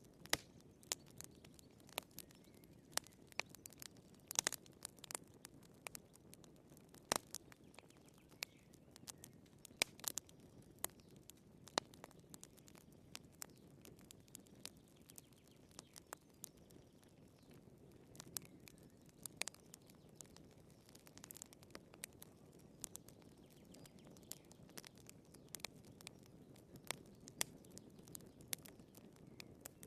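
Wood fire burning in a fireplace, with quiet irregular crackles and pops over a soft low rush of flame.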